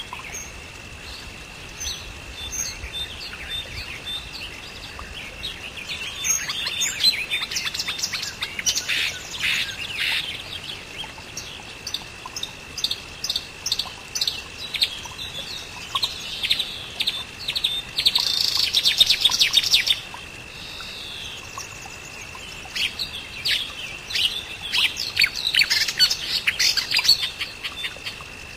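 Birds chirping in quick bursts of short calls, with a dense flurry a little past the middle and another near the end, over a steady high-pitched tone.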